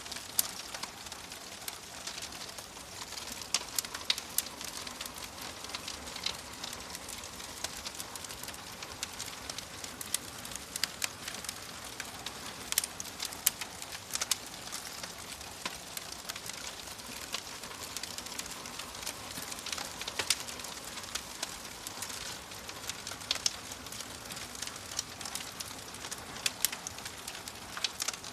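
Wood fire in a fireplace crackling: a steady hiss under frequent, irregular sharp pops and snaps.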